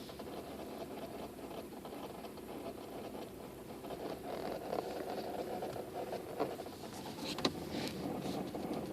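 A 2004 Toyota Sienna minivan making an odd noise: a steady low drone with a few sharp clicks about seven seconds in.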